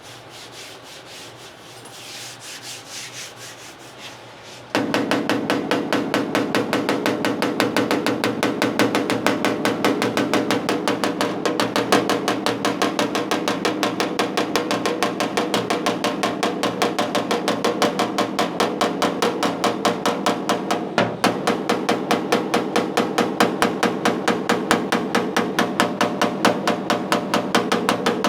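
Hammer tapping the car's steel front fender in a fast, even run of light blows, several a second, to knock down high spots in the panel. For the first few seconds before it there is only quiet rubbing on the panel.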